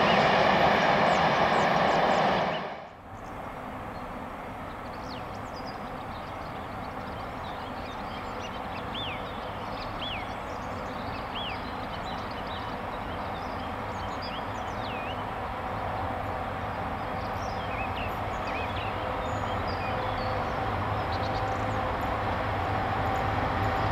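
A train passing close by, loud with a steady whine of several tones, cutting off abruptly about two and a half seconds in. Then a steady rushing of river water with small birds chirping now and then and a low hum slowly growing louder toward the end.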